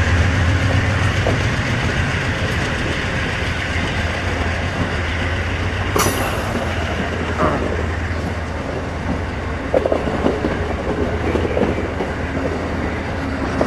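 Amtrak passenger train pulling out past the listener: the diesel locomotive's deep engine rumble under throttle, loudest at first, gives way to the rolling clatter of the train on the rails. A sharp metallic clank with a brief high ring about six seconds in.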